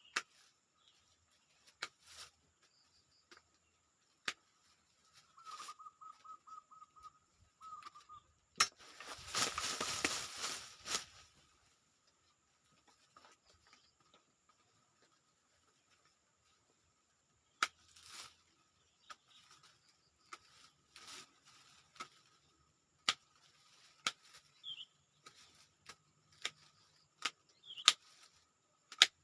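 Serut bonsai stock's woody branches being cut into pieces: scattered sharp snaps and clicks, with a rustling, crackling burst lasting about two seconds roughly nine seconds in.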